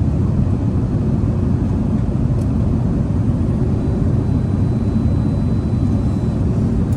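Steady cabin noise inside an Airbus A380 during descent: an even low rumble of engines and airflow over the fuselage.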